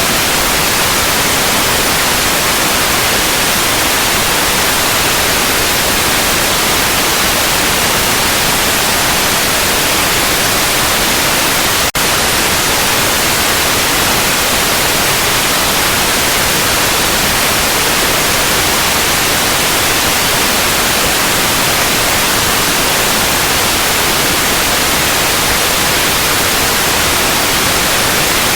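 Steady synthetic white noise, an even hiss, that dips for an instant about twelve seconds in.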